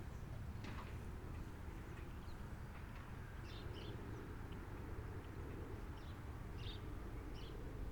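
A few short, high bird chirps over a steady low outdoor rumble.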